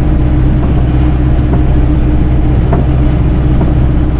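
Tractor engine running steadily while pulling a working hay baler: an even, low drone with a few faint clicks and rattles.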